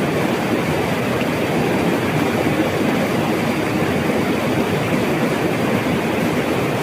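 Flowing river water rushing steadily, an even, unbroken noise.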